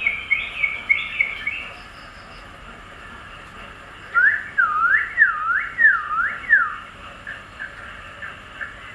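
Songbirds chirping: a quick run of short falling chirps at the start, then four looping whistled notes that swoop down and back up, then softer scattered chirps.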